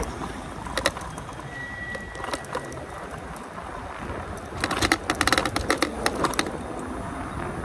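Front suspension fork of a Taoci Ve7 e-bike rattling and clacking over trail bumps, with a quick burst of rapid clacks about five seconds in, over a low rumble of riding. The rider finds the noise annoying and takes it as a reason for better forks.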